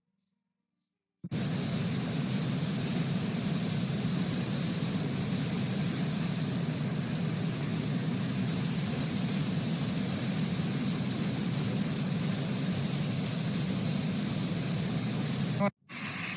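Steady, loud rushing noise of floodwater, starting suddenly about a second in and cutting off just before the end.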